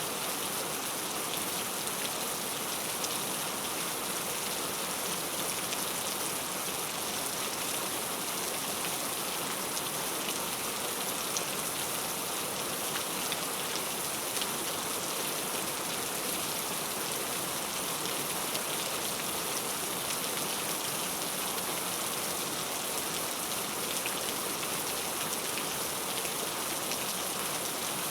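Heavy, steady rainfall hissing on a surface, with scattered drop ticks.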